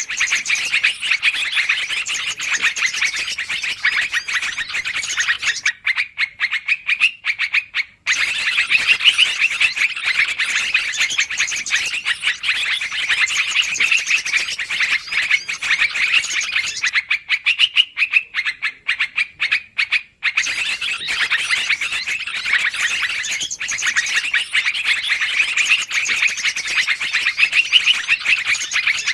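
Yellow-vented bulbuls (trucukan) calling in a noisy, dense chatter, a bird-lure recording. The calling breaks off briefly about six seconds in and again about seventeen seconds in.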